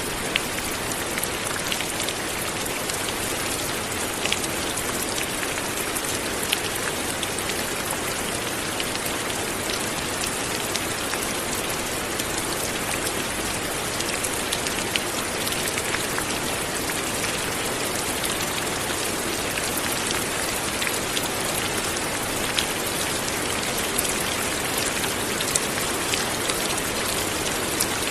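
Steady light rain falling, an even hiss with scattered individual drops ticking on a surface.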